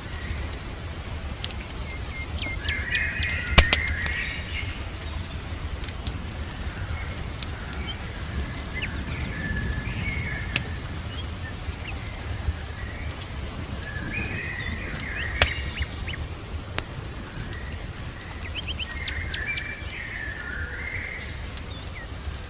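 Birds chirping in short clusters of calls every few seconds, over a steady low rumble, with scattered sharp pops and crackles of a wood fire; one pop a few seconds in is the loudest sound.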